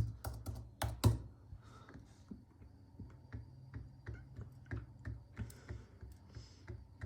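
Irregular light clicks and taps over a low steady hum, with a few louder clicks about a second in.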